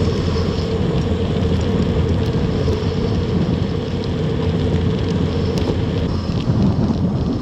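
Loud, steady vehicle engine noise with a constant hum and no clear rise or fall in pitch.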